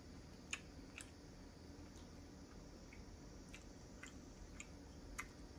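Faint chewing with small wet mouth clicks, about one every half second to a second, over a near-silent room.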